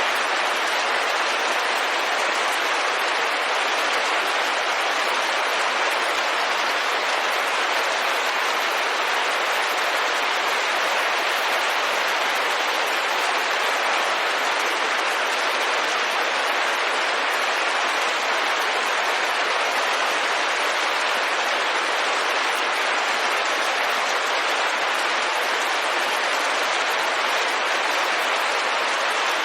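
Steady rain falling on a window pane, an even hiss of countless drops.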